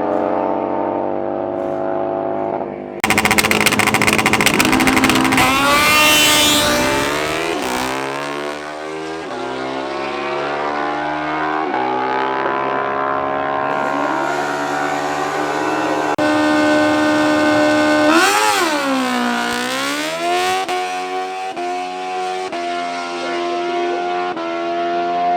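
Drag-racing motorcycle engines at full race volume. Engines run steadily at first, then about three seconds in comes a sudden loud launch with the engine note rising steeply as the bike accelerates, breaking off near seven seconds. More engine revving rises and falls afterwards, with one sharp drop and climb in pitch about 18 seconds in.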